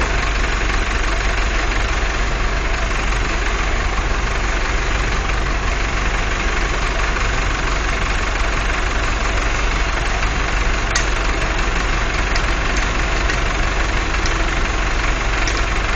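A motor engine idling steadily and continuously.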